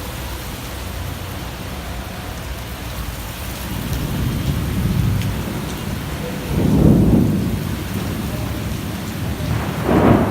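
Steady rain falling, with low rumbles of thunder swelling about four seconds in, a louder one around seven seconds, and another near the end.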